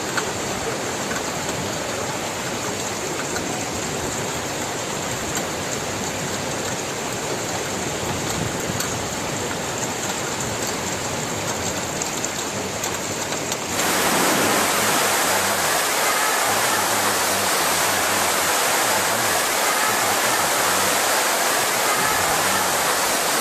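Steady rushing of heavy water, a dense even hiss. About 14 seconds in it cuts abruptly to a louder, brighter rush.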